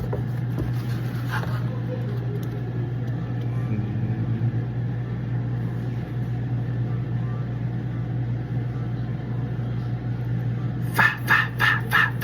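A steady low hum, like an idling engine, runs throughout. Near the end comes a quick run of about seven short, sharp pitched sounds, roughly three a second.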